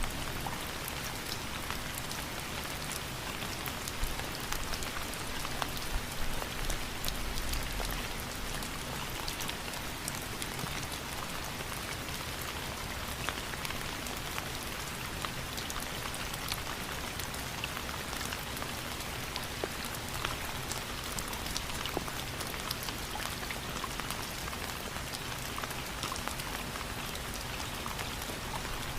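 Steady rain falling, a constant hiss scattered with many small drop ticks.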